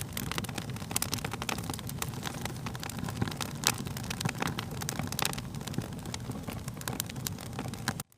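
Wood fire crackling and popping over a low, steady rumble of burning, with many sharp irregular snaps. The sound cuts out abruptly for a moment near the end, then resumes.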